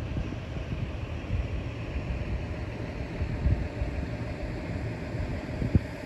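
Running noise of a Joshin Electric Railway electric train heard from inside the cab: a steady low rumble with irregular thumps and a sharp knock near the end.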